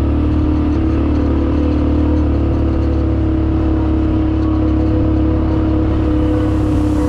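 ATV engine running at a steady pitch.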